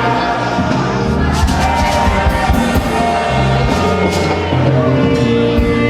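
Live gospel music with singing over a moving bass line and repeated drum or cymbal hits.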